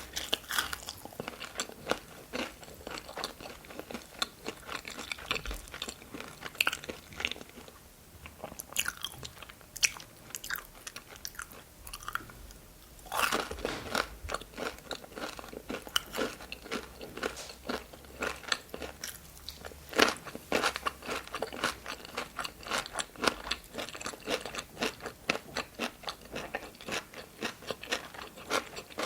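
Close-miked eating: crisp, crunchy bites and steady chewing of breaded chicken nuggets, dense crackles the whole way through, easing off briefly in the middle before a loud run of crunching starts again.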